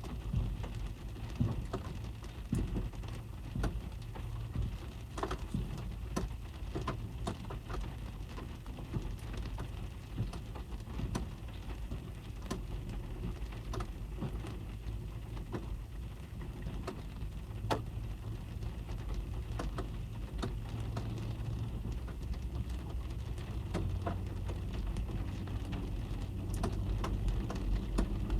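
Rain falling on a car, heard from inside the cabin: scattered drops tapping over a steady low rumble, growing a little heavier toward the end.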